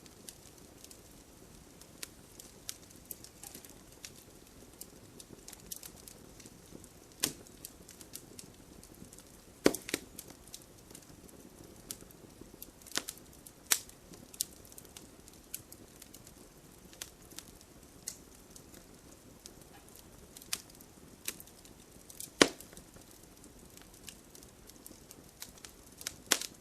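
Campfire of burning wood crackling, with irregular sharp pops and snaps over a soft steady rush. A few pops stand out much louder than the rest, scattered through.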